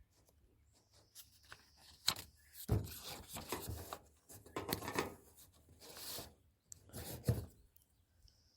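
Irregular rustling and rubbing close to the microphone, a string of short scuffs and brushes, as of handling, clothing or paper being moved.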